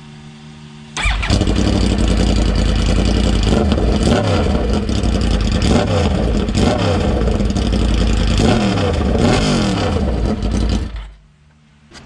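Yamaha R1 inline-four motorcycle engine firing up about a second in and revved several times, pitch rising and falling, through a GYTR muffler with its baffle and packing removed, which makes it too loud. The engine cuts off near the end.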